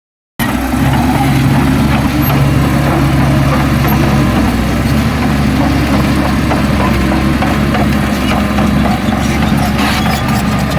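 Heavy diesel engine of an earthmoving machine running steadily at low revs, cutting in abruptly about half a second in.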